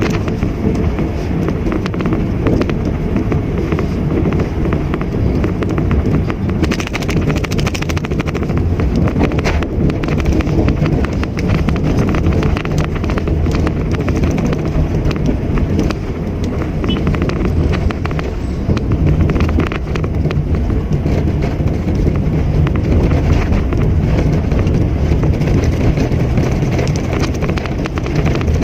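Mitsubishi Mirage hatchback running on the road: steady engine drone with tyre and road noise.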